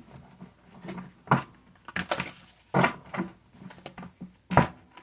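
Tarot cards being handled and set down on a table: a series of about six short, sharp taps and slaps.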